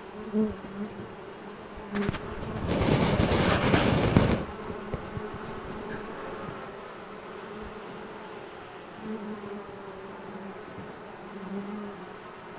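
Honey bee swarm buzzing as the bees settle into a capture box, the roar of their wings died down to a steady hum. About two seconds in, a loud rushing noise covers it for about two seconds, and near the end a couple of bees hum louder as they pass close.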